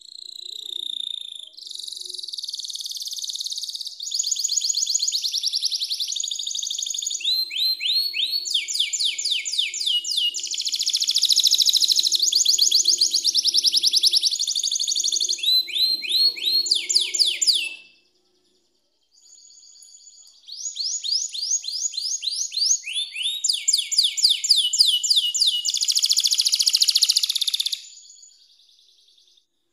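Domestic canary singing: long, fast song phrases of rapid trills and rolls of repeated high sweeping notes, in two long bouts with a brief pause a little past halfway.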